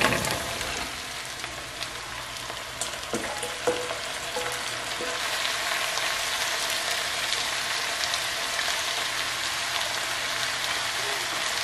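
Diced zucchini and other vegetables sizzling in a hot pot, loudest as they are tipped in, then frying steadily. A wooden spoon stirs and knocks a few times against the pot.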